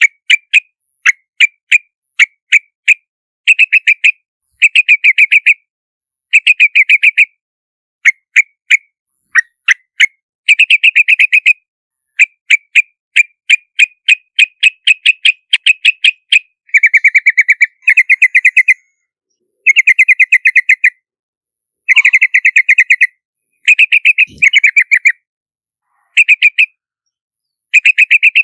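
Yellow-vented bulbul calling: quick, bubbly chirps run together in rapid phrases about a second long, each followed by a short silence, with no background noise between them.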